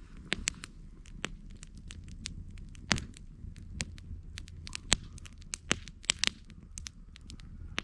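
Campfire burning, wood crackling with frequent irregular sharp pops over a low rumble of the flames; the loudest pops come about 3 and 5 seconds in.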